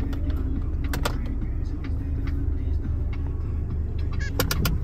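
Car engine running, heard from inside the cabin as a steady low rumble and hum, with a few sharp clicks about a second in and several more near the end.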